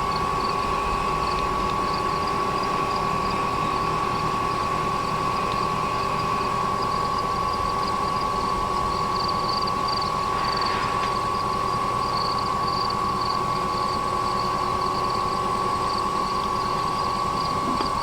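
A steady mechanical hum with a constant high whine that does not change. Insects chirp in rapid pulses high above it.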